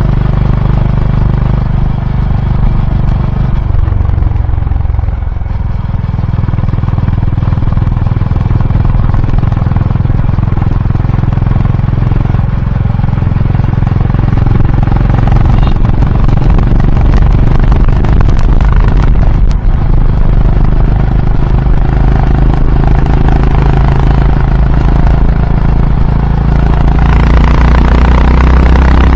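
Exhaust of a Honda H'ness CB350's single-cylinder engine while the bike is ridden, running steadily under way. The engine note drops back briefly about four seconds in, then builds again and is loudest near the end as the rider opens the throttle.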